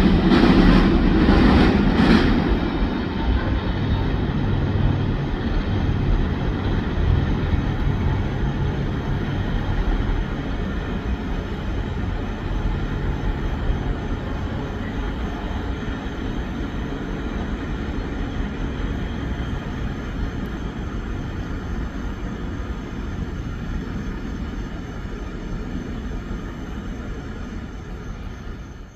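Covered hopper cars of a long freight train rolling past with wheel clicks for the first couple of seconds, then the train's rumble slowly fading as it moves away.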